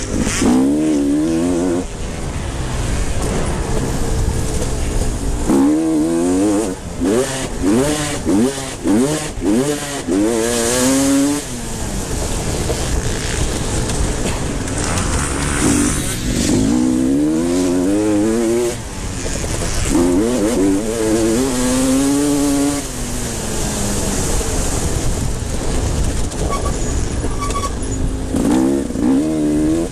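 Motocross bikes racing on a dirt track, engines revving up and dropping back over and over as riders shift through the gears and ease off for jumps and corners; bursts come in waves as bikes pass, with a quicker run of rises in the middle.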